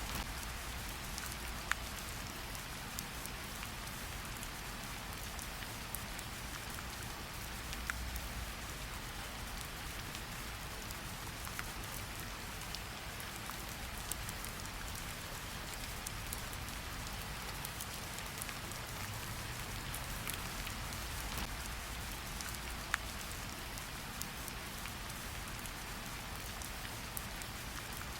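Steady hiss of rain mixed with a fireplace crackling, with a sharp pop every few seconds.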